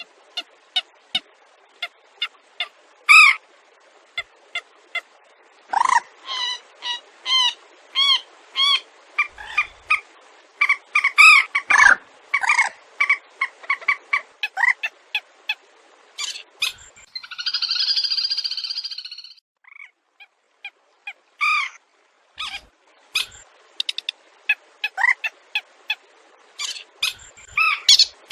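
Wetland bird calls, the kind played to lure birds into nets: many short sharp notes, singly and in quick runs, with one harsh buzzing call lasting about two seconds a little past the middle.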